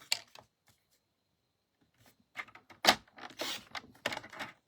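Paper and craft tools handled on a work table: scattered small clicks, a sharp click about three seconds in, then paper rustling.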